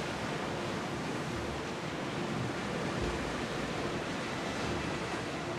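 Sea waves: a steady rushing noise of water with no distinct breaks or splashes.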